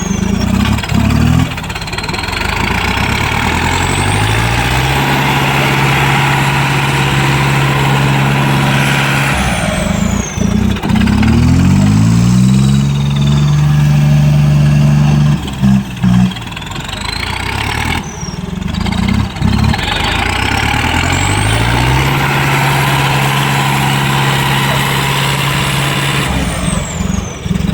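Tractor diesel engine revving under load in a tractor pull. It climbs to high revs and holds there, three times over, with short breaks in the sound between the pulls.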